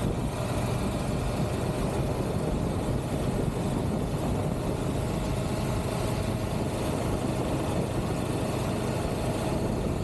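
Triumph Tiger 1200 GT Pro motorcycle riding at a steady pace: the three-cylinder engine's running note blended with wind and road noise.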